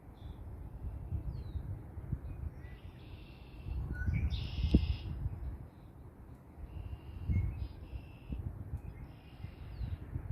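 Birds calling in short, harsh, raspy bursts, several times, over a low rumble of wind on the microphone. A louder gust buffets the microphone about halfway through.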